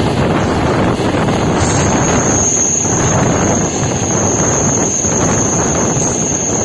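Train running with a loud, steady rumble and rattle; about two seconds in a steady high-pitched squeal of the wheels against the rails sets in and holds.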